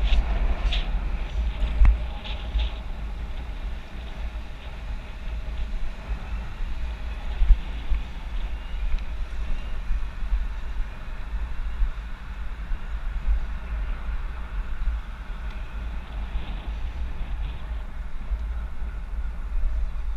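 Wind buffeting a bike-mounted GoPro microphone while riding, a steady low rumble that swells and dips in gusts over a hiss of road and traffic noise. A few sharp clicks come in the first couple of seconds.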